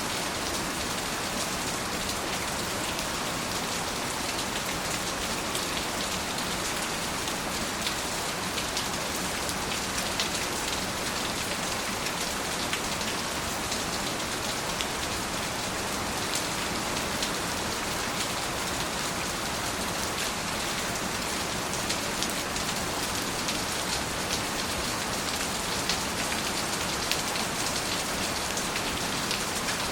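Steady, heavy rain falling, with the fine pattering of many individual drops over a constant hiss.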